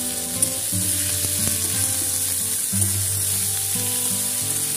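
Okra and potato pieces sizzling as they stir-fry in oil in a kadai, turned with a metal spatula that knocks against the pan about half a second in. Background music with slow, held low notes plays underneath.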